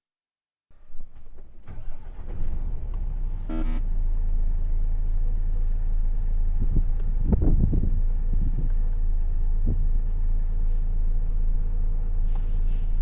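Heavy truck's diesel engine coming up over the first few seconds, then running with a steady low hum. A short beeping chime sounds about three and a half seconds in.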